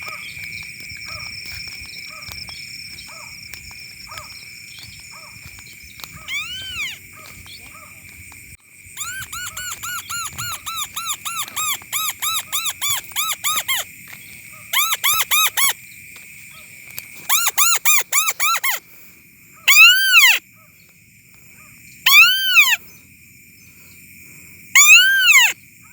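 Bird calls: squeaky whistled notes that rise and fall in pitch, coming rapidly at about three a second and then in separate loud bursts, the last few as single longer notes. A steady high buzz runs underneath.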